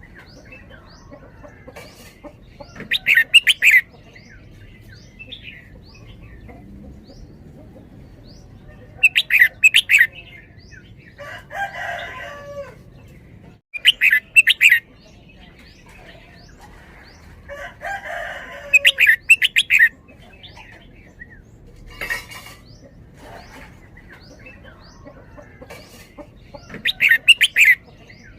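Red-whiskered bulbul singing: loud bursts of quick, bright song phrases about every five seconds, some coming in back-to-back pairs, with softer chirps between.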